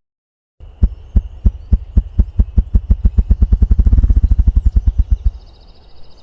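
Ruffed grouse drumming: low wing-beat thumps that start about three a second and speed up into a fast roll, then stop shortly before the end.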